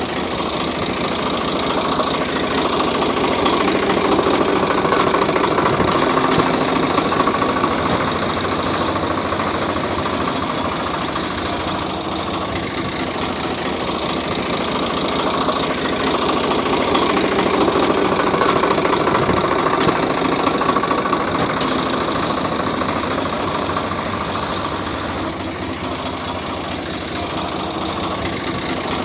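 Steady engine-like running sound that swells and fades slowly twice.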